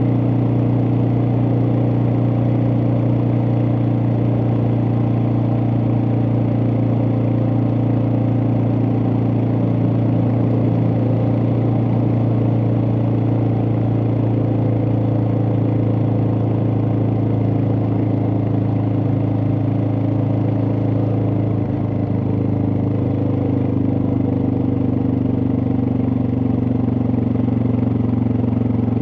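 Suzuki DR650's single-cylinder engine running at a steady speed under way, dipping slightly in pitch about three quarters of the way in.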